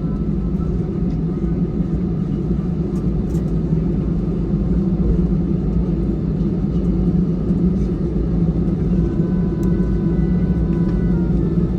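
Steady low hum and rumble inside the cabin of an Airbus A320 standing after landing, with no sharp events.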